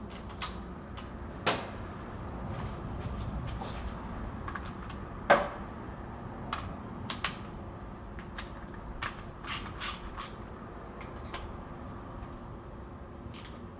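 Scattered clicks and knocks of tools and parts being handled during scooter maintenance, with two sharper knocks about a second and a half and five seconds in, over a steady low hum.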